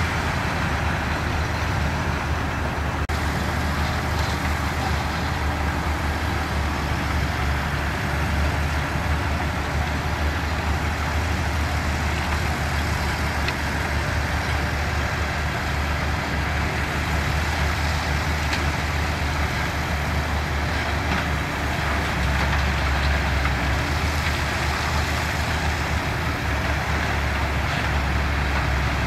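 Diesel engine of heavy construction machinery running steadily, a continuous low drone.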